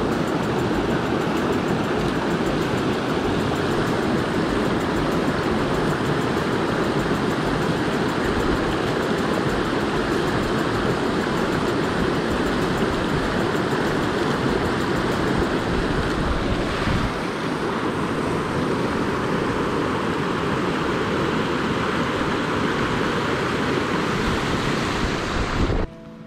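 Small river rushing: a steady wash of flowing water that cuts off abruptly near the end.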